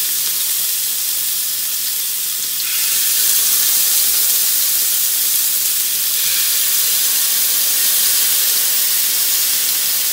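Chicken kebab skewers sizzling in hot oil on a flat tawa griddle, a steady hiss that gets louder about three seconds in as more skewers go onto the pan.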